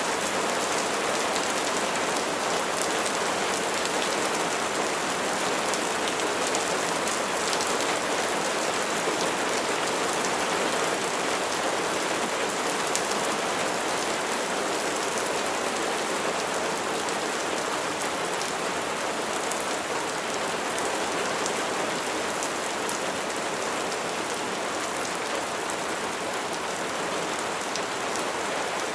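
Steady rain falling, with a fine patter of individual drops over an even hiss.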